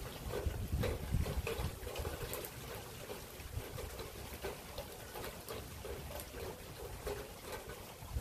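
Rain falling in a thunderstorm: a steady wash of rainfall with many close, irregular drips and splashes. A low rumble rises and falls underneath, strongest in the first couple of seconds.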